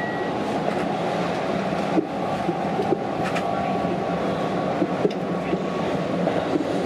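Keihan electric train running, heard from inside the driver's cab: a steady rolling rumble with a few sharp clicks of the wheels over rail joints and points.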